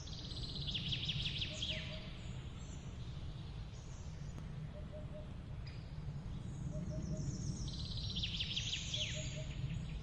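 Songbirds singing: two bouts of rapid, high trilled song with quick downward sweeps, one near the start and one from about three-quarters through, over soft low notes repeated in twos and threes every couple of seconds. A steady low rumble of background noise runs underneath.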